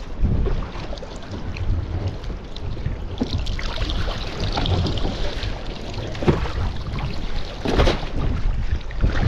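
Wind buffeting the microphone over water rushing and splashing along a Laser sailing dinghy's hull in high wind, the hiss of spray growing after about three seconds, with one sharp hit about eight seconds in.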